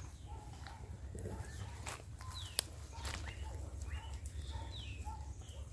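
Birds calling outdoors: short chirps and several quick high falling whistles, over a steady low rumble, with one sharp click about two and a half seconds in.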